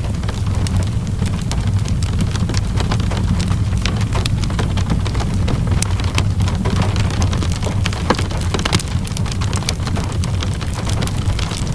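Fireplace crackling with frequent sharp, irregular pops, over a steady patter of falling rain and a constant low rumble.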